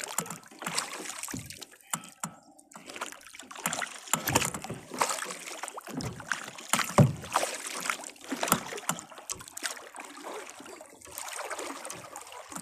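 Kayak paddle strokes splashing and dripping in the water, with scattered knocks against the hull and one sharper hit about seven seconds in.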